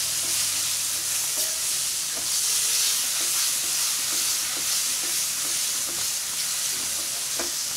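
Bharta mixture of roasted eggplant, onion and tomato sizzling steadily in oil in a metal kadhai while a spatula stirs and mashes it, with a few light scrapes of the spatula on the pan.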